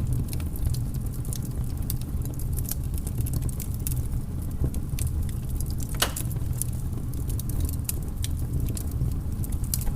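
Wood fire crackling in a fireplace: frequent small snaps and pops, one louder pop about six seconds in, over a steady low rumble.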